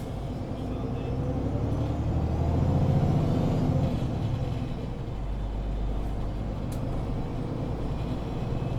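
MAN Lion's City 19C EfficientHybrid articulated bus's diesel engine pulling under load: its drone rises in pitch and loudness to a peak about three seconds in, then eases back and runs on steadily.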